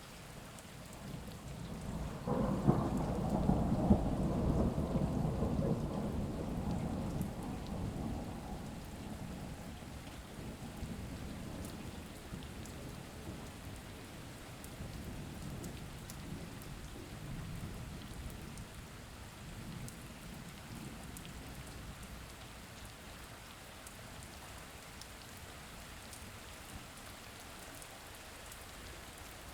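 Steady rain with a roll of thunder that breaks about two seconds in and rumbles away slowly over the following several seconds.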